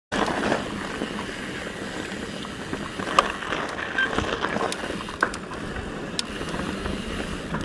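Steady rushing noise of travel in a moving vehicle, with scattered sharp clicks and rattles.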